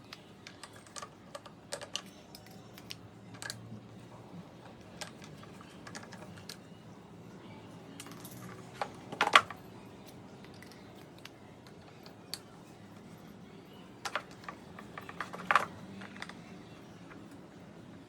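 Scattered light clicks and taps of a table fan being handled and taken apart, with a louder knock about nine seconds in and two more late on.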